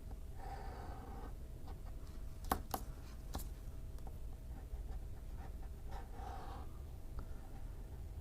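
Scratch card being scratched off: short scraping strokes about half a second in and again around six seconds, with a few sharp clicks near the middle, over a steady low hum.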